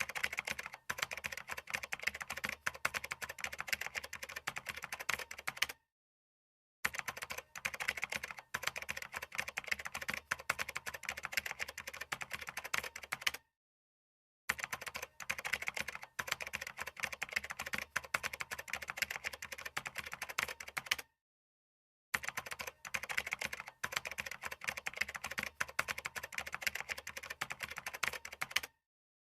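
Fast, continuous typing on a computer keyboard, a dense stream of keystroke clicks. It comes in runs of about seven seconds, each broken by roughly a second of dead silence.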